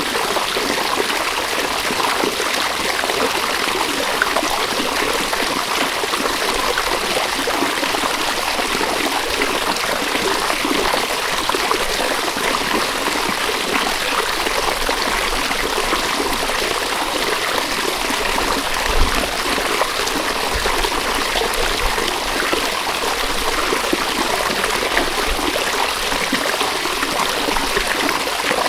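A river's running water: a steady, unbroken rushing and babbling flow.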